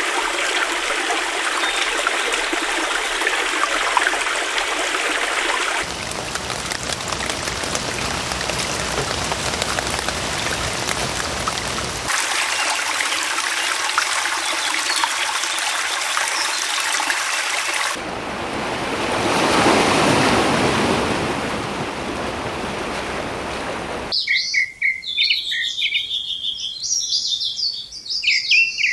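A series of nature recordings cut one into the next: several stretches of steady rushing water, one of them swelling and fading about two-thirds of the way through. Then, in the last few seconds, birds chirping in quick, high calls.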